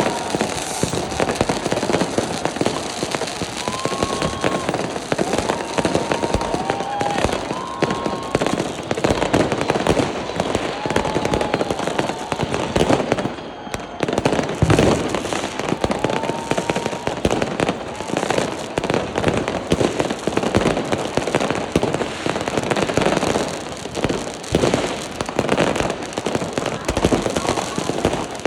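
Fireworks and firecrackers going off in a dense, continuous crackle of bangs, with several short whistles in the first half and a brief lull about halfway through.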